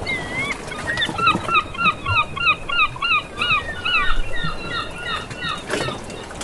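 A bird calling in a rapid series of short pitched notes, about three a second, over a steady background noise of sea or wind, with a single knock near the end.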